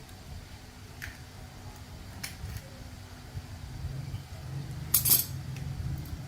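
Metal tools and parts clinking and clattering during repair work on a rice threshing machine: a few single clinks, then a louder cluster of clatter about five seconds in, over a steady low rumble.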